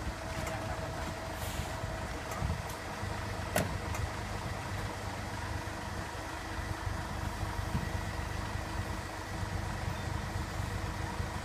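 Heavy dump truck's engine running steadily at low revs, with a single sharp click about three and a half seconds in.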